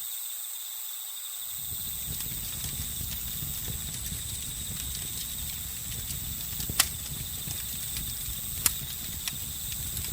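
Crackling campfire with occasional sharp pops, two of them loud in the second half, over a steady high trilling chorus of crickets and other night insects.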